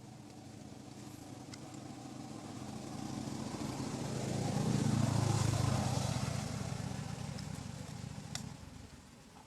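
A motor vehicle passing by: its engine and road noise build up, are loudest about five seconds in, then fade away.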